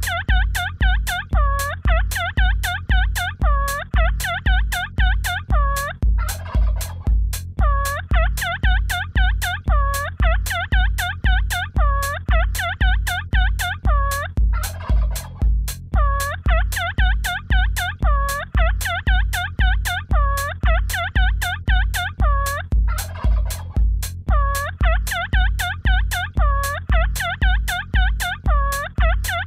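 Electronic dance track built from wild turkey gobbles: rapid chopped gobbling phrases over a steady kick drum at about two beats a second, with a short noise sweep between phrases roughly every eight seconds.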